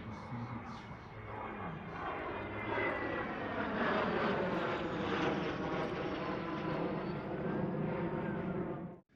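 Fixed-wing aircraft flying past at an airshow, its engine sound swelling to a peak a few seconds in, with the pitch sliding down as it passes. It cuts off suddenly near the end.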